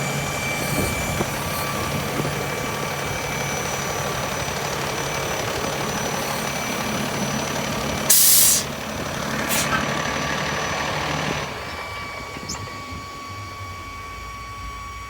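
Peterbilt 337 truck's diesel engine running steadily with a thin steady whine. About eight seconds in there is a loud half-second burst of air hiss, typical of an air brake release, and a shorter hiss a second later. A few seconds after that the engine sound drops away to a low hum.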